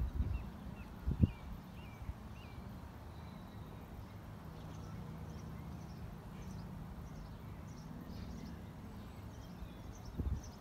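Small birds chirping over a low, steady hum, with a few low thumps near the start and again near the end.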